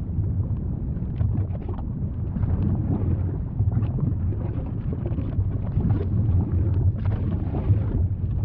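Volcano rumbling deeply and steadily, with faint scattered crackles over the top.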